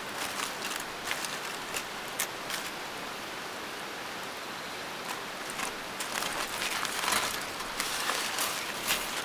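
Rain falling steadily, a constant hiss with scattered sharp drop ticks, growing denser and louder about two-thirds of the way through.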